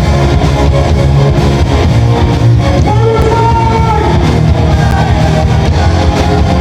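Live rock band playing loudly, with electric guitar over bass and drums and a held melody note about three seconds in.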